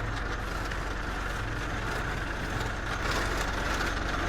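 A vehicle engine idling with a steady low hum, under a constant rush of noise.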